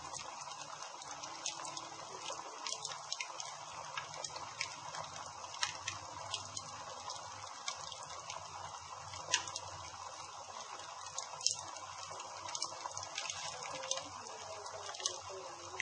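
Campfire burning: a steady hiss with irregular sharp crackles and pops of the burning wood.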